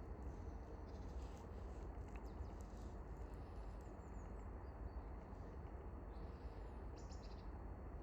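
Faint, short high-pitched bird calls several times, heard over a steady low background rumble.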